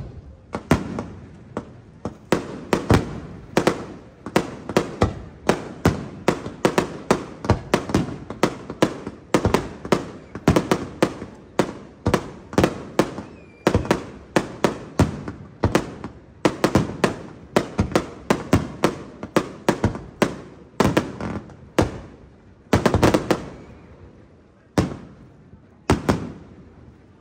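Fireworks display: aerial shells bursting in a rapid run of sharp bangs, about two a second, thinning to a few last bangs near the end.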